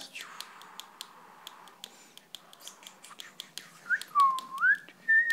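Whistling: a glide that dips and rises again, followed by a short held higher note, near the end, over a soft hiss and scattered light clicks.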